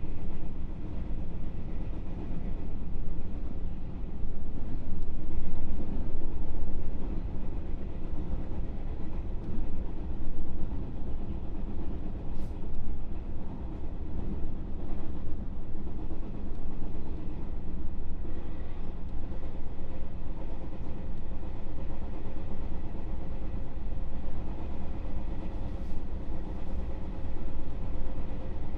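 JR West 221-series electric train running, heard from inside the motor car: a steady rumble of wheels on the rails with a faint even hum from the traction motors and gears. A single sharp click about twelve seconds in.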